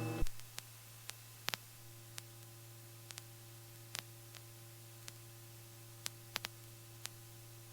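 Faint steady low hum with a fainter higher tone and scattered soft clicks, heard on the cockpit intercom audio line between radio calls.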